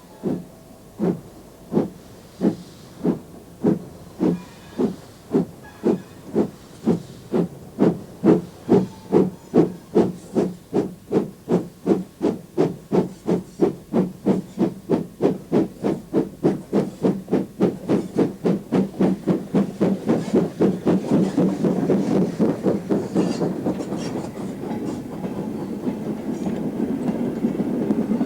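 Steam locomotive pulling away, its exhaust chuffs starting about one a second and quickening steadily to about three a second. Near the end the beats blend into the steady rumble of the train running past.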